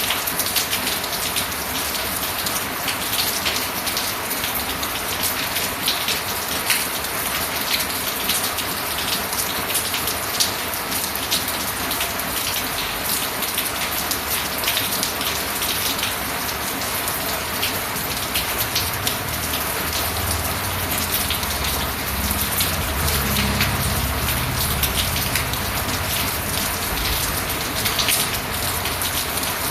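Steady rain falling on a surface, with many close drop taps throughout. A low rumble swells in the second half and fades again.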